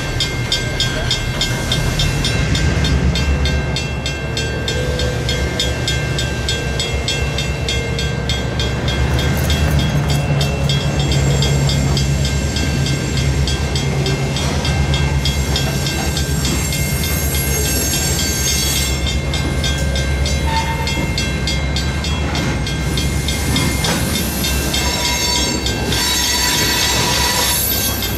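EMD diesel road-switcher locomotives with 567 engines running under load, a steady low rumble, with rail cars rolling behind them and steady high-pitched tones above.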